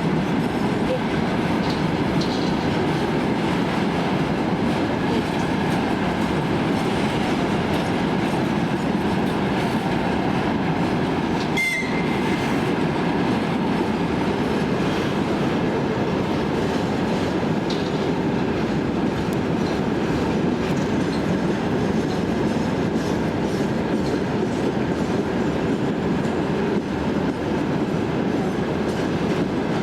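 Train running along the track: a steady rumble with the clatter of wheels over rail joints, and one short sharp clank about twelve seconds in.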